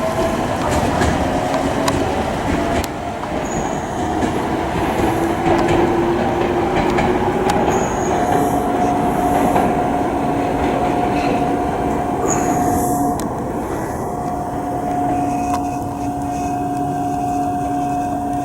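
Electric commuter train running on rails, its motor whine rising in pitch over the first several seconds as it gathers speed, then holding a steady pitch over the rumble of wheels on track.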